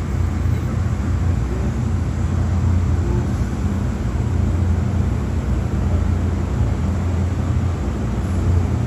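Car wash machinery running with a loud, steady low drone and a hiss over it.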